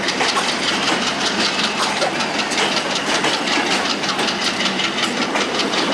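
Sundarban Express, a Bangladesh Railway intercity passenger train, running through a station: a steady loud rumble and hiss of the rolling train, with rapid, uneven clickety-clack of wheels over rail joints.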